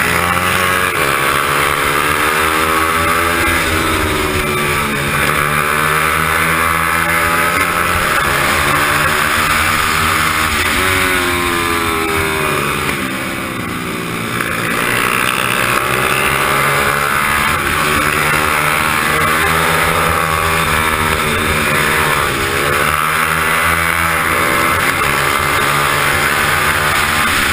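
Onboard sound of a small racing motorcycle's engine revving up and down again and again as it races round corners, with wind rushing over the microphone. The revs drop briefly about halfway through, then climb again.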